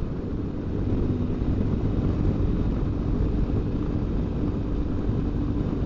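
BMW R1200GS Adventure motorcycle being ridden at a steady cruise: its boxer-twin engine hums evenly under a constant rush of road and wind noise.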